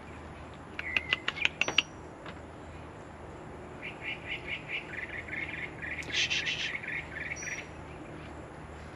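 A bird calling: a few sharp calls about a second in, then a run of quick repeated chirps, about three or four a second, from about four seconds in until near the end.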